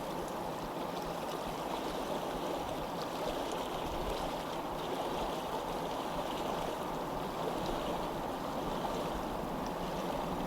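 Water running in a stream: a steady, even rushing with faint small splashes over it.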